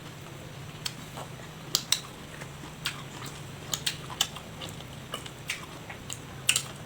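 A person chewing a mouthful of food close to the microphone: irregular sharp wet mouth clicks and smacks, about a dozen, over a faint steady low hum.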